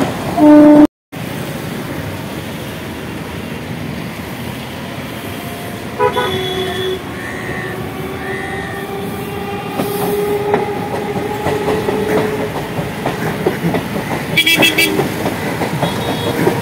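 Indian Railways EMU local train running toward and under the bridge, with a steady rumble. Its horn sounds about six seconds in, followed by a long tone that slowly rises for several seconds. Near the end the wheels clatter over the rail joints. Right at the start there is a short, very loud tone, then a brief cut to silence.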